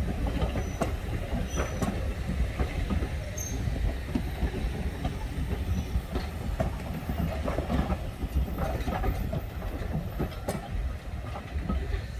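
Steam-hauled BR Mk1 passenger coaches rolling slowly past: a steady low rumble of wheels on the rails, with irregular clicks and clacks as the wheels cross the rail joints.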